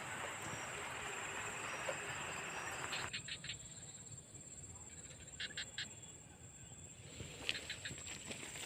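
Steady high-pitched drone of insects such as crickets, with a noisy rustle for the first three seconds and a few short runs of quick ticks later on.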